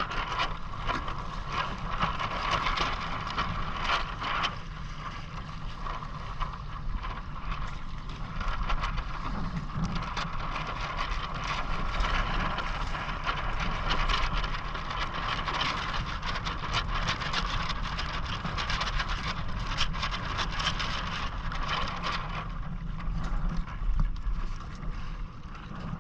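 Steady wind and water noise aboard a Hobie Island sailing kayak, with a low rumble and a continual light crackle of spray and wind on the microphone.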